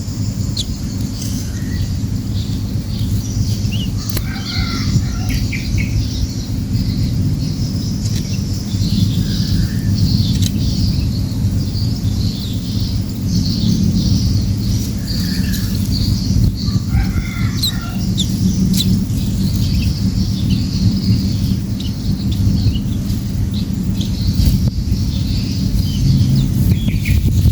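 Small songbirds chirping, with short high calls throughout and brief bursts of lower calls about four, nine, fifteen and seventeen seconds in, over a steady low rumble.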